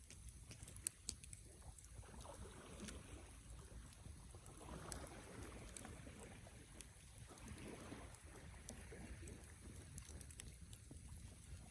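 Wood campfire burning quietly, with scattered small crackles and pops over a low rumble; one sharper pop about a second in.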